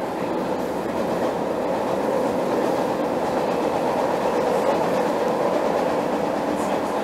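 Steady rumble of a moving passenger train heard from inside the car, wheels running on the rails, growing a little louder over the first couple of seconds and then holding steady.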